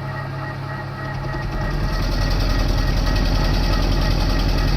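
TOS milling machine running, its drive and spindle humming steadily. It grows louder about a second and a half in, with a heavier low rumble and a fast, even beat.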